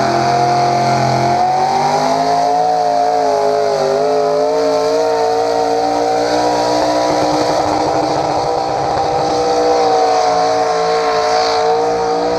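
Engine of a competition pulling vehicle running at sustained high revs under load during a pull, the pitch held nearly steady with small dips and recoveries.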